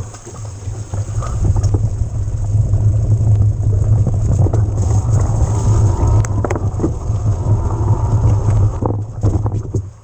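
Riding noise from an electric mountain bike: wind rumbling on the camera's microphone over tyre and trail noise, with scattered knocks and rattles. It swells about two seconds in and eases near the end.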